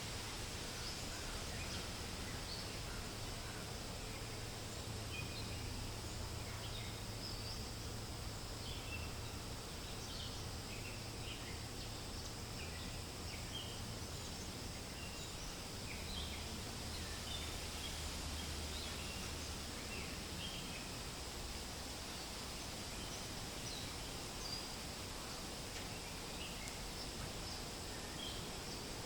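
Forest ambience: a steady hiss of wind rustling through leaves, with many short, high bird chirps scattered through it.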